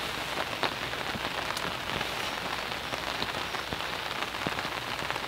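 Steady rain falling on the canvas of a fishing brolly, with scattered single drops landing as sharp ticks.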